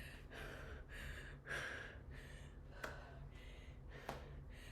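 A woman breathing hard in quick, heavy gasps from the strain of explosive plyometric push-ups, with two sharp taps a little over a second apart in the second half.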